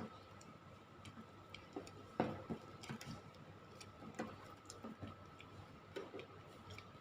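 Faint, irregular light clicks and knocks of kitchen utensils against a bowl as pineapple slices are mixed with spices and lemon, over a faint steady high-pitched hum.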